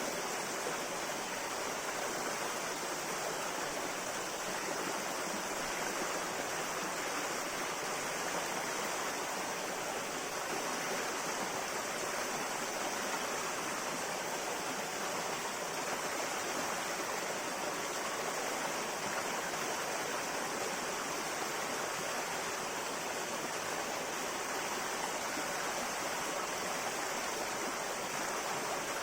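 Clear river flowing over rocks, a steady rushing and babbling.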